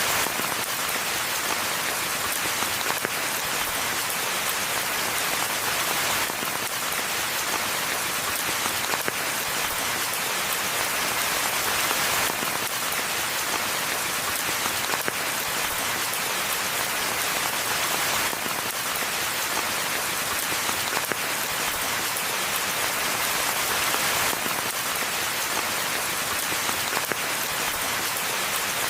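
Steady rain falling in a forest: a dense, even hiss of countless drops, with only slight swells in level.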